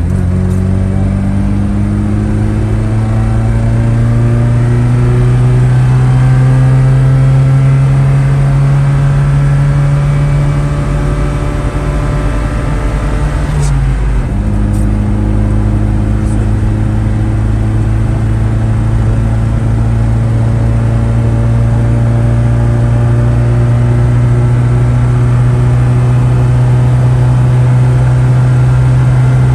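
GAZ-24 Volga's original 24D four-cylinder petrol engine pulling hard uphill under acceleration: the engine note climbs slowly, drops with a gear change about 14 seconds in, then climbs again in the next gear.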